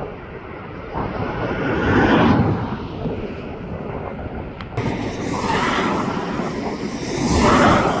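Gusty wind buffeting the microphone, swelling about two seconds in and again near the end, with a sharp click near the middle.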